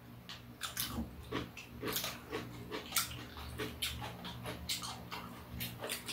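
Close-up eating sounds of crisp fried rice-paper rolls: irregular crunching, chewing and mouth smacks, many short sharp clicks close together, over a low steady hum.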